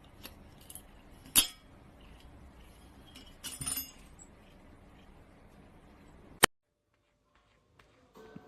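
A few light glassy clinks and taps: a sharp one about a second and a half in, a short cluster of clinks near the middle, and a sharp click after six seconds, after which the sound cuts out completely.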